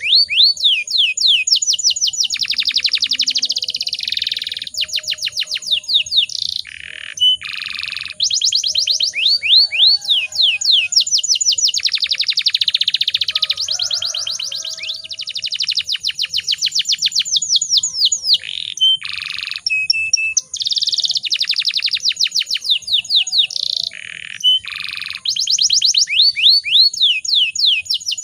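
Canary singing continuously in rapid rolling trills. It runs phrase after phrase of fast repeated sweeping notes, broken only by short pauses.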